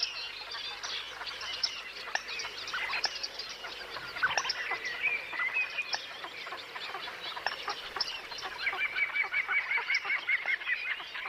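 Great crested grebes calling during their courtship head-shaking display: many short calls overlap, with a quick run of repeated notes near the end.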